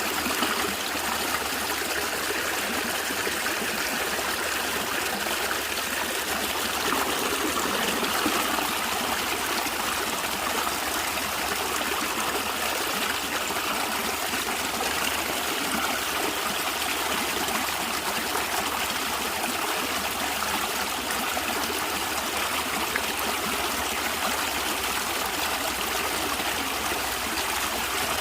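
Stream of water gurgling and trickling steadily over stones.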